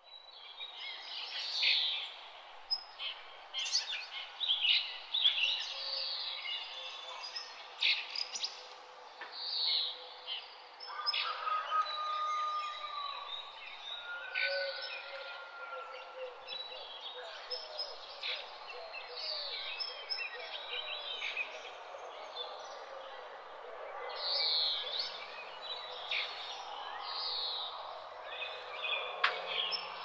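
Forest birdsong: many birds chirping and calling with quick sweeping notes, over a steady background hiss.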